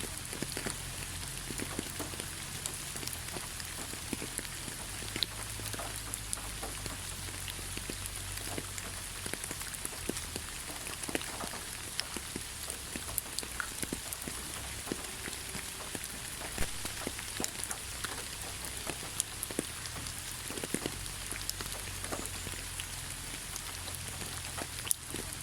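Steady rain falling in a pine forest: an even hiss with many individual drops ticking sharply close by, scattered irregularly throughout.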